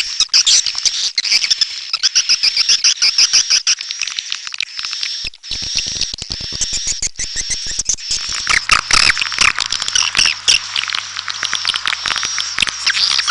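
Swiftlets twittering: a dense, unbroken stream of rapid high chirps and clicks from many birds. A faint low hum joins in about two-thirds of the way through.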